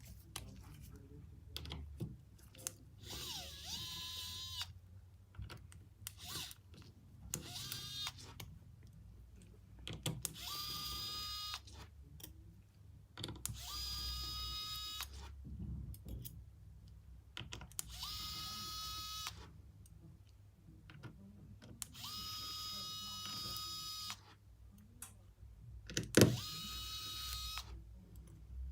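A small electric tool motor spins up with a short rising whine, runs for a second or two at a steady high pitch, then stops. This happens about seven times at intervals of a few seconds, with soft clicks and knocks in between and one sharp knock near the end.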